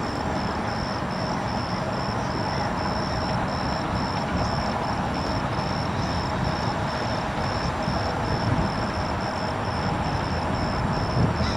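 An insect, cricket-like, chirping steadily in short high pulses, about three a second, over a steady broad background noise.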